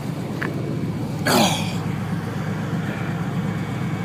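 1980 Pontiac Trans Am idling with its air conditioning running, a steady low hum. There is a short click about half a second in and, a little over a second in, a brief breathy sound that falls in pitch.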